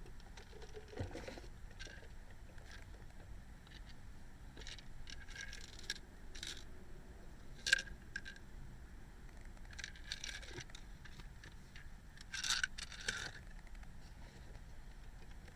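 Intermittent rustling and scraping from someone moving about and handling things inside a parked car, with a sharp click about eight seconds in and a louder burst of rustling near the end.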